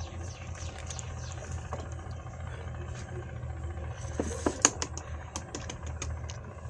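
An egg cracked against the rim of a mixing bowl: a short cluster of sharp cracks and knocks about four and a half seconds in, among scattered light clicks of kitchen handling, over a steady low hum.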